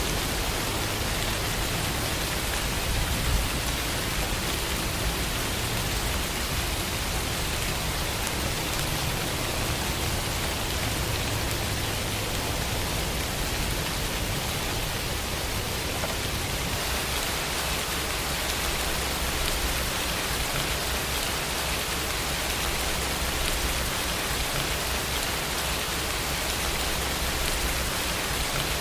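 Steady rainfall, an even hiss of drops with no breaks; a little past halfway the sound turns slightly brighter and loses some of its low rumble.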